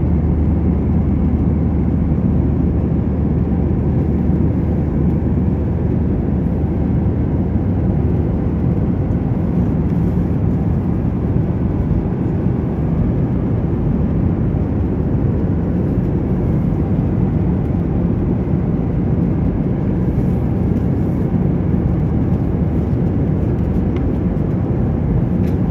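Steady cabin noise of a Boeing 737-900ER in flight: the CFM56-7B jet engines and the rush of air along the fuselage make a constant, deep hum.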